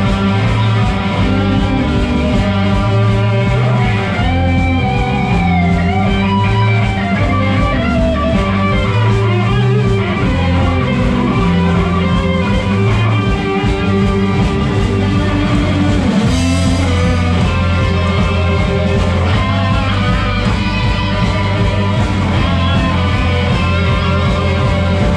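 Rock band playing live, an instrumental passage with no singing: electric guitar lines bending in pitch over bass guitar and drum kit, with a cymbal crash about 16 seconds in.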